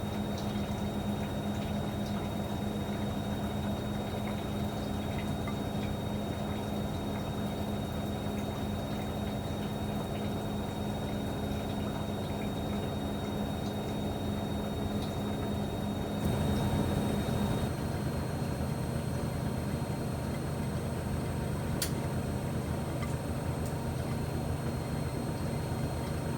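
Miele MedicWash W2585 front-loading washing machine running a wash cycle: a steady motor hum with water sloshing in the drum. About two-thirds of the way through, the motor note drops lower and briefly gets louder, and a single click follows a few seconds later.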